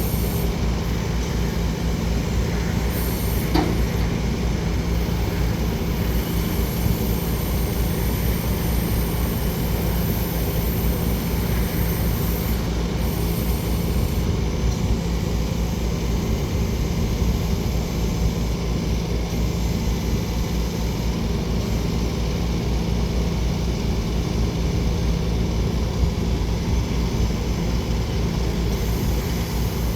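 Steady engine drone with a constant low hum, running evenly without change.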